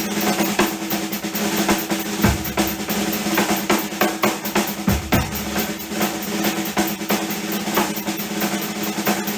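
Acoustic drum kit in a fast solo: dense snare and tom rolls over quick, steady cymbal strokes, with two deep low drum hits about two and five seconds in.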